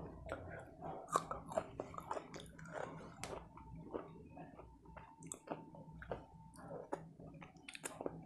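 Close-miked chewing of food, with a dense, irregular run of wet mouth clicks and smacks, and fingers gathering rice on a plate.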